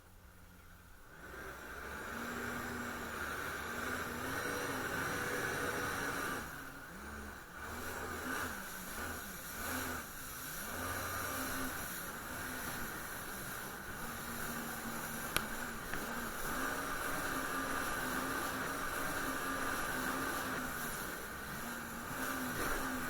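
Jet ski engine running, its pitch wavering up and down with the throttle, over a steady hiss. It swells in about a second in.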